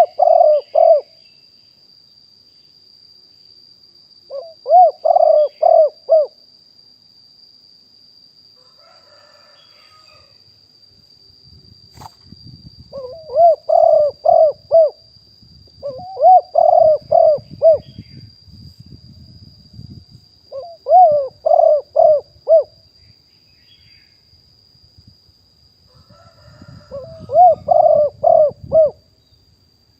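Spotted dove cooing: about six short phrases of three to five quick notes each, spaced a few seconds apart. A faint steady high-pitched tone runs under it throughout.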